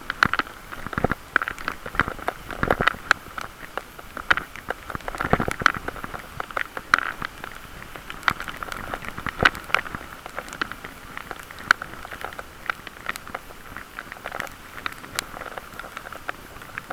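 Riding noise from a bicycle in strong wind, picked up by a camera inside a waterproof case: irregular crackling and sharp clicks over a steady rushing noise.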